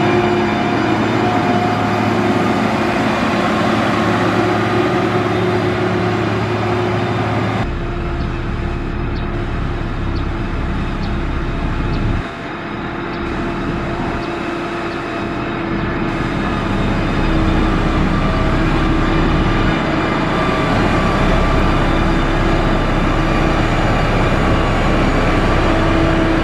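Diesel engine of heavy road-building machinery, likely a motor grader, running steadily under load. The sound changes abruptly about a third of the way in and dips briefly near the middle.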